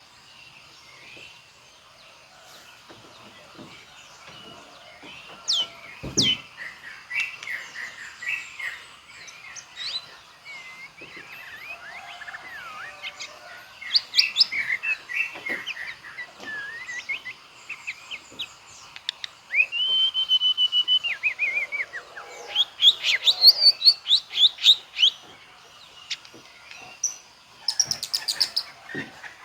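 White-rumped shama (murai batu) singing a varied song of whistles, rising and falling glides and fast trills, showing off its repertoire of mimicked calls. About twenty seconds in it holds one long steady whistle, then runs into a quick burst of repeated notes.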